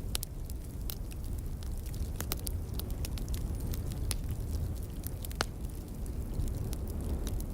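Logs burning in a fireplace, crackling with scattered sharp pops at irregular intervals over a steady low rumble.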